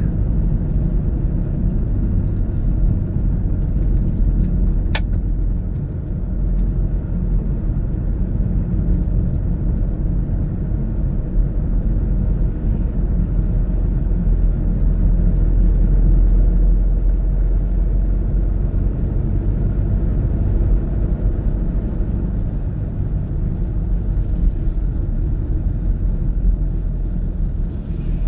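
Car on the move: a steady low rumble of engine and road noise, with a single sharp click about five seconds in.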